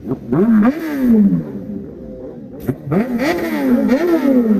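Kawasaki ZX-10R's inline-four revved through an SC Project exhaust in a sound check. There are two bursts of quick throttle blips, each rising sharply and falling away as the revs drop.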